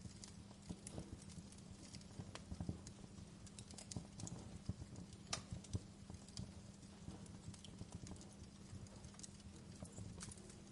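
Wood fire crackling in a fireplace: irregular snaps and pops, a few louder than the rest, over a low steady rumble.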